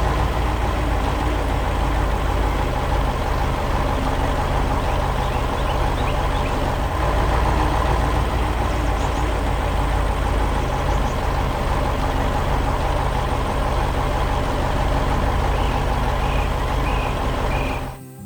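Heavy truck's diesel engine running steadily with a deep low rumble, cutting off near the end.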